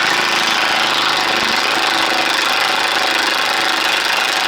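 Power tool, most likely an impact wrench, running steadily on an unheated bolt in old armour plate, a loud continuous rattle with no break.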